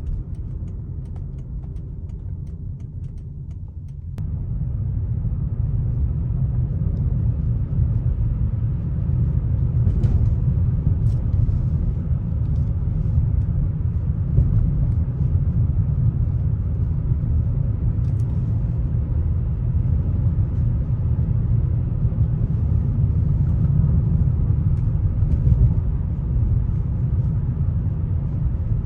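2004 Lexus GS300 being driven: steady low rumble of road and engine noise, which gets louder and fuller about four seconds in.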